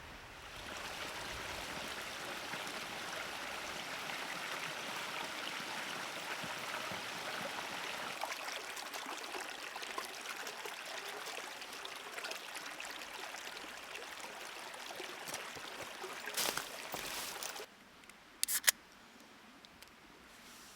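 Small clear creek trickling steadily, cutting off suddenly near the end. Shortly after, two sharp clicks stand out against the quieter background.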